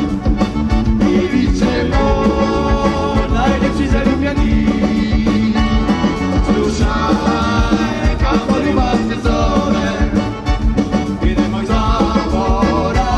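Live band playing upbeat Eastern European–style pop with a steady beat: electric bass guitar and drums under a man singing.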